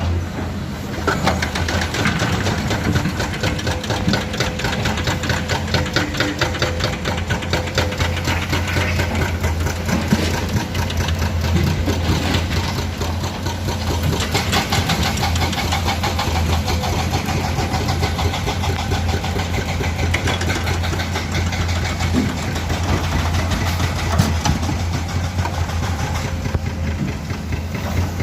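Heavy diesel engines of excavators running steadily under work, a deep hum with a fast, even diesel clatter over it.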